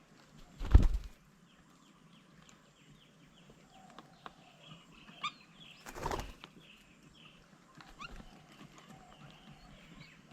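Birds' wings flapping in two short loud bursts, about a second in and again about six seconds in, as birds fly at the bird table. Small birds chirp faintly and repeatedly in the background.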